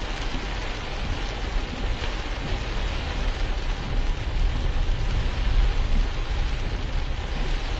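Steady rain and wet-road tyre noise heard from inside a moving car, with a strong low rumble underneath, picked up by a dashcam's microphone.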